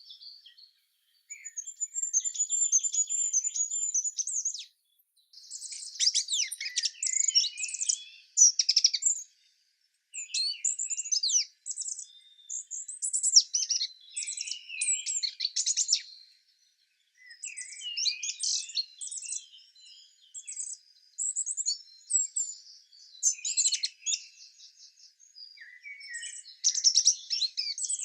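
Songbirds singing in short phrases of high chirps and trills, with brief pauses between phrases.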